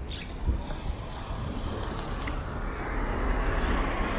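A rushing outdoor noise over a low rumble, growing louder through the second half.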